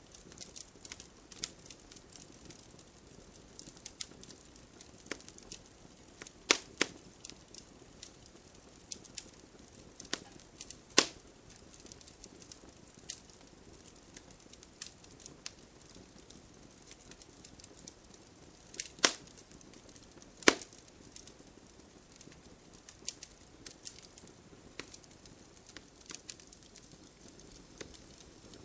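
Wood bonfire crackling: irregular sharp snaps and pops, a few of them much louder, over a faint steady hiss of light rain.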